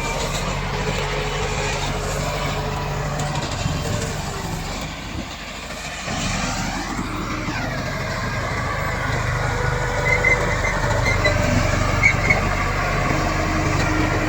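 Komatsu D68 bulldozer's diesel engine running under steady work, easing off about five seconds in and picking up again a second later, with a few short squeaks near the end.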